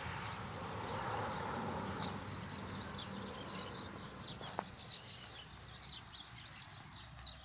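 Small birds chirping repeatedly over a steady outdoor hiss that fades after the first few seconds. A single sharp click comes about four and a half seconds in.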